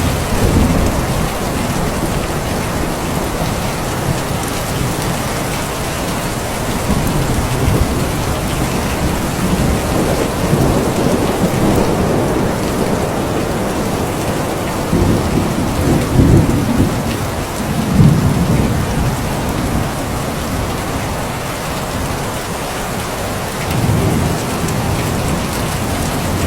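Steady, heavy rain falling, with several low rolls of thunder rumbling through it. The loudest rolls come around two-thirds of the way in.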